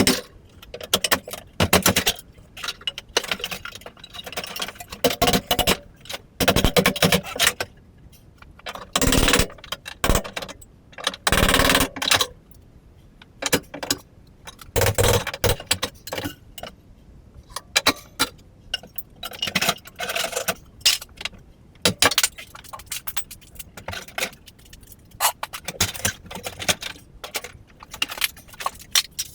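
Irregular knocks, cracks and metallic clinks of damaged wooden floor joists being pried and pulled out, with scraping between the strikes.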